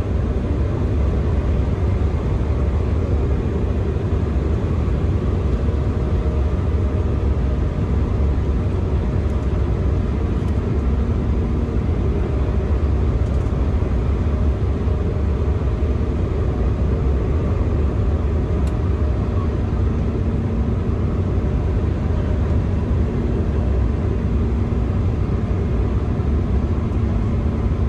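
Steady cabin noise inside an Embraer E175 jet airliner in flight: a deep, even rumble from the engines and the air rushing past the fuselage, with a faint hum.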